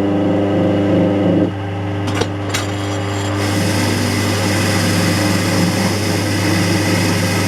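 Electric power tool running steadily with a hum, stripping paint from a metal hand-drill part. About a second and a half in the motor note drops a little as it takes load, and from about three and a half seconds in a rasping hiss of the abrasive on the metal joins it.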